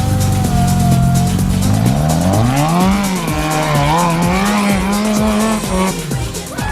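Off-road competition truck engine, revving hard: its pitch holds steady for about two seconds, then climbs sharply and rises and falls repeatedly as the throttle is worked.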